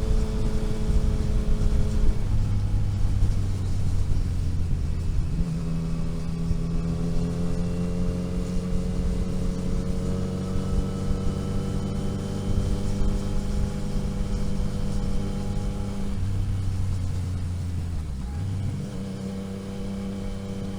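Car engine pulling along a mountain road, its note rising slowly for several seconds and changing abruptly a few times.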